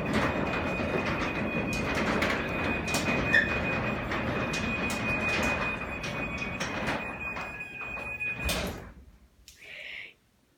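Craftsman garage door opener running and the garage door rolling down its track, a steady rumble and rattle with a high whine held over it. It stops abruptly about nine seconds in as the door reaches the floor, followed by one brief faint sound.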